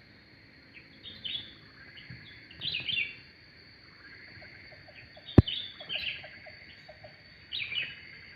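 Birds chirping in short clusters of high notes every second or two, with a row of quick low pips in the middle and one sharp click about five seconds in, the loudest sound; a thin steady high tone runs underneath.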